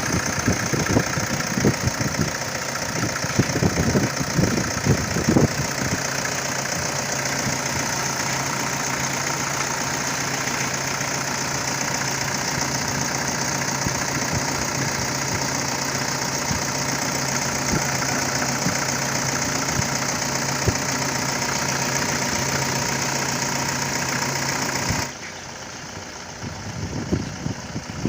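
Toyota Innova's 2KD four-cylinder turbodiesel running at idle on a test start after its timing belt tensioner was replaced to cure a knocking noise. Uneven low thumps in the first few seconds give way to a steady idle, and about 25 seconds in the sound drops away abruptly.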